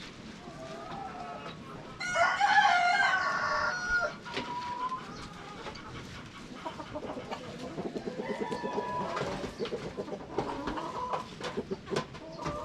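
Chickens clucking, with a rooster crowing loudly once about two seconds in, then a run of short, repeated clucks.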